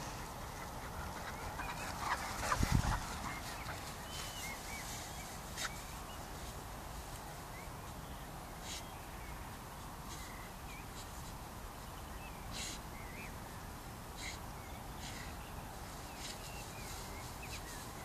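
Birds chirping in scattered short calls over a steady outdoor hiss, with one brief low thump on the microphone about two and a half seconds in.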